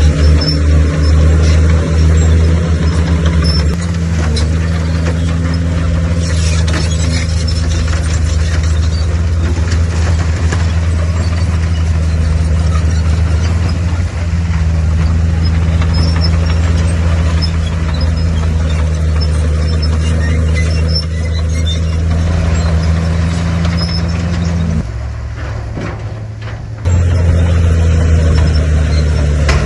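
Heavy diesel engine of an earthmoving machine, a bulldozer, running steadily under load, its note dropping away for about two seconds near the end before it picks up again.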